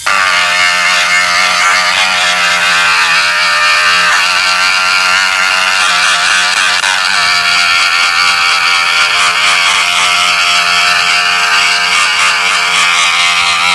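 Dremel-type rotary tool running at high speed, grinding the plastic nylon top tank of a radiator along a leaking crack to rough it up for epoxy. A steady high whine, briefly dipping right at the start.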